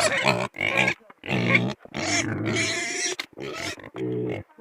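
Hungry pigs calling loudly for food: a run of about six calls, one of them drawn out for about a second midway.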